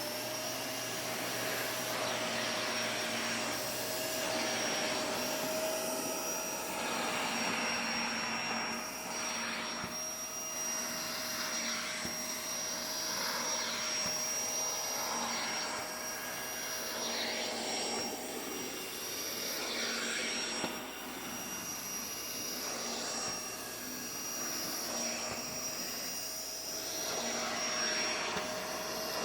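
A vacuum cleaner running, with a steady high whine over a rushing airflow noise whose texture keeps shifting.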